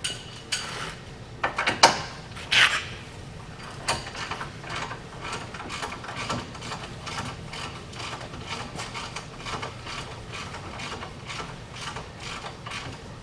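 Hand ratchet wrench clicking as a nut on the truck's tie rod end is worked, a run of quick clicks several a second, with a few louder metal knocks in the first few seconds.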